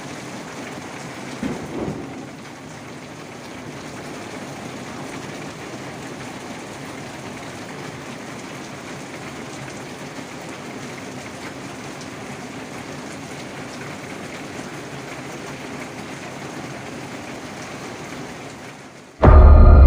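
Steady rain falling, an even hiss, with a brief louder sound about a second and a half in. Near the end, loud music cuts in abruptly.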